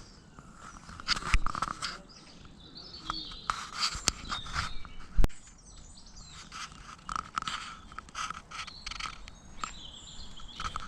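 Birds chirping, over a run of short, irregular crunching taps.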